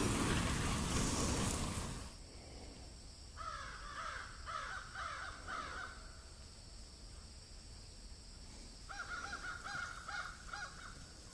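A bird calling in two bouts of about six quick, harsh, repeated calls, the second bout a few seconds after the first. Before them, a loud rushing noise cuts off abruptly about two seconds in.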